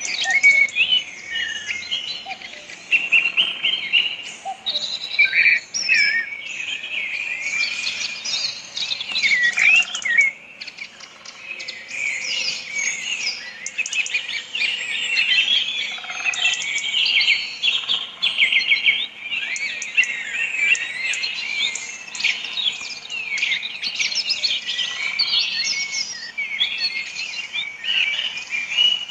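Many small birds chirping and twittering at once, a dense chorus of short, overlapping high calls.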